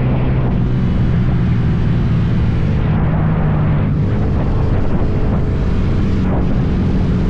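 Motorcycle engine running loud, revved by hand so its exhaust note shifts in pitch a few times.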